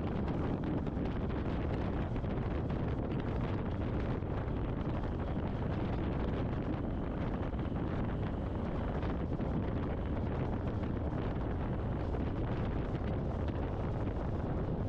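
Steady wind rush buffeting a helmet intercom microphone while riding a motorcycle at road speed, with the ride's low rumble underneath.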